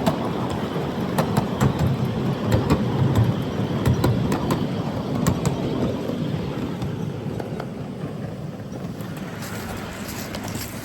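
7.5-inch gauge ridable miniature train running on the track, a steady rumble with many sharp clicks over it. It fades gradually over the second half as the train moves away.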